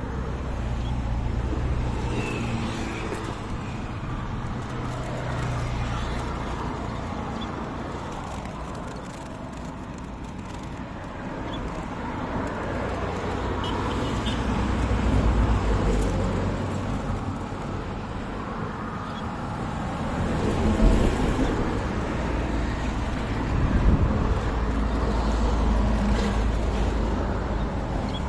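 Road traffic noise: a steady low rumble of vehicle engines and tyres, swelling and fading, with two sharper bumps near the end.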